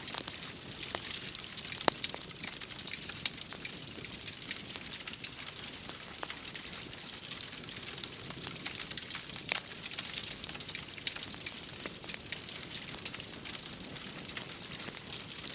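Wood fire crackling, with frequent small snaps and a few louder pops, about two seconds in and again near the middle, over a steady hiss of rain.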